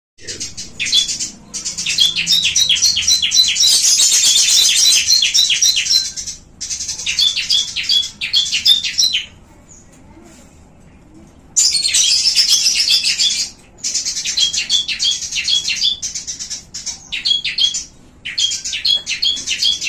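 Caged small birds chirping in quick runs of high, repeated notes, several a second, in phrases broken by a pause of about two seconds midway.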